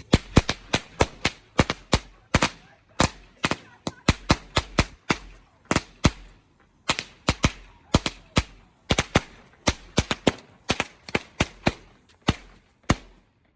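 Fireworks going off in a long, irregular run of sharp bangs, roughly three a second, each with a short echo, stopping shortly before the end.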